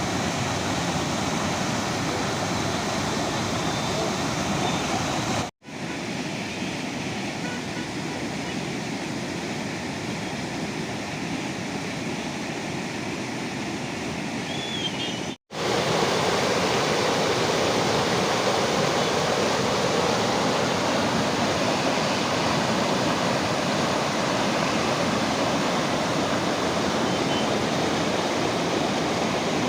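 Water from an overflowing lake rushing steadily over its outflow, a continuous noise. The sound cuts out briefly twice, about five and fifteen seconds in, and is a little louder after the second break.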